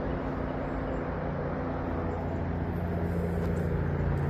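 Road traffic going by: a steady rumble with an engine hum that grows louder toward the end.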